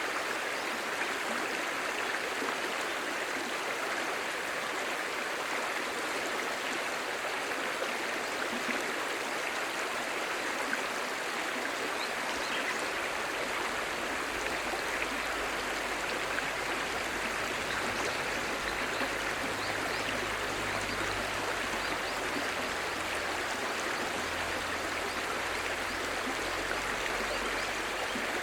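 Clear stream babbling: a steady rush of shallow running water with small splashes and ripples. A low rumble joins underneath about halfway through.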